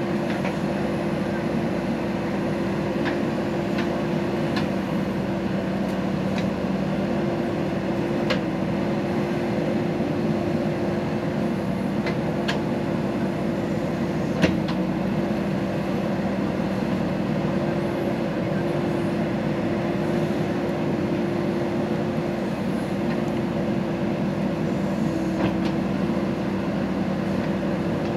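JCB backhoe loader's diesel engine running at a steady speed, with scattered light clicks and one sharper knock about halfway through.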